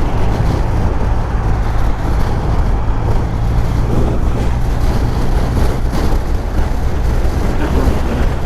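Motorcycle engine running steadily at cruising speed, under constant wind and road noise.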